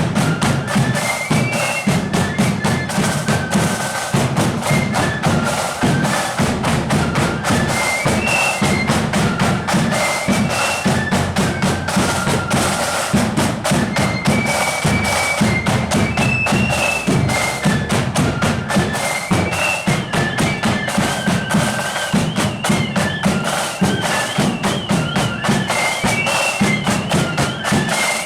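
Marching band playing a high, shrill melody over a heavy bass drum beat and rattling snare drums, with a trilled passage about two-thirds of the way through.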